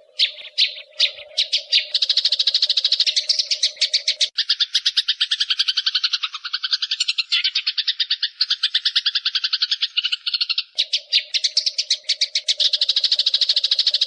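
Small songbirds chattering: a dense, unbroken run of short, sharp chirps, about ten a second, starting abruptly. A steady low drone sits underneath for the first four seconds and again from about eleven seconds in.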